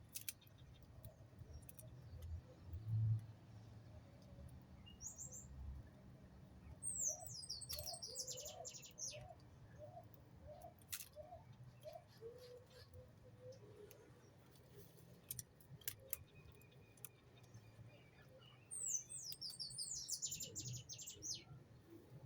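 Songbird singing two short, quick, high-pitched phrases of descending notes, about seven seconds in and again near the end, with a run of lower, evenly spaced call notes between them and faint scattered clicks.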